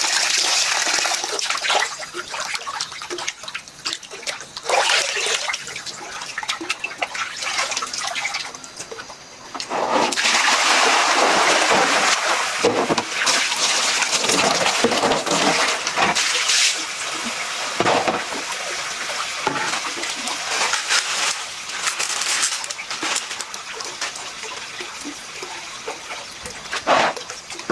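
Water splashing and sloshing in uneven bursts, louder from about ten seconds in.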